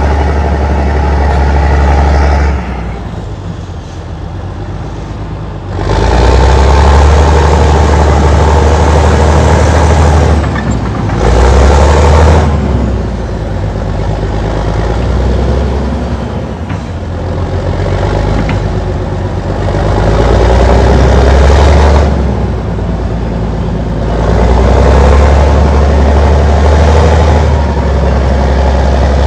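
Allis-Chalmers HD-21 crawler dozer's diesel engine running, its sound growing louder and easing back in stretches of a few seconds, with a clear dip about three seconds in that lasts roughly three seconds.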